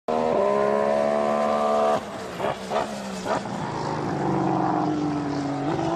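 2014 Formula One 1.6-litre turbocharged V6 engine at a steady high pitch that cuts off suddenly about two seconds in, followed by three sharp pops, then an engine note falling in pitch and starting to rise again near the end.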